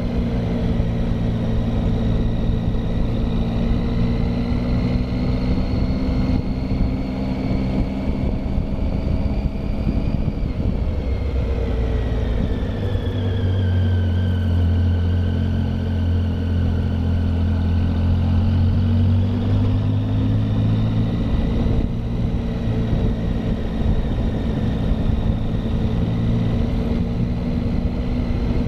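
Triumph Tiger motorcycle engine running under way on a hill climb, heard from on the bike. The engine note drops from about ten seconds in, holds lower for a few seconds, then climbs back up from about twenty seconds in.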